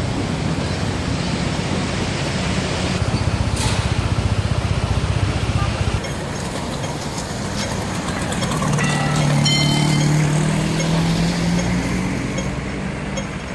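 Street traffic noise, with a vehicle's engine passing close by and running loudest about nine to eleven seconds in.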